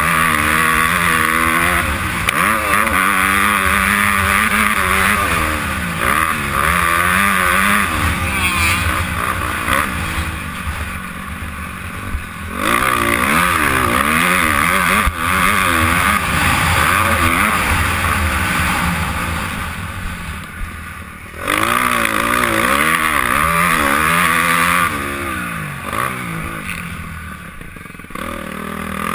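Honda CRF250R's single-cylinder four-stroke motocross engine, heard from the rider's helmet camera, revving hard with its pitch sweeping up and down through the gears. The throttle is cut back several times, around ten seconds in, about twenty seconds in and near the end, before the engine pulls hard again.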